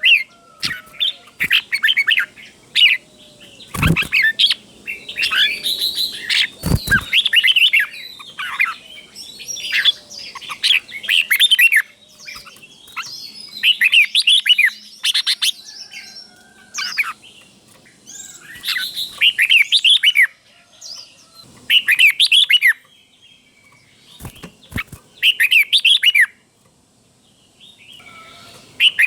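Red-whiskered bulbul singing short, quickly warbled phrases, repeated every couple of seconds in the doubled 'bernle' style, with a few sharp knocks among them.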